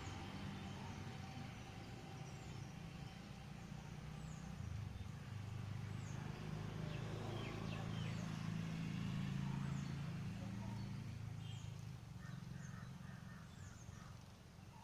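Steady low rumble of road traffic with small birds chirping over it: short, high, falling notes about once a second, and a few lower pulsed calls near the end.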